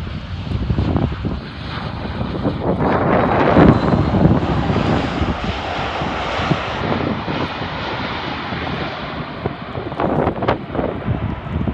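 Jet airliner's engines as the aircraft passes the runway-side spotting point. The sound swells to its loudest about three to five seconds in, then slowly eases off.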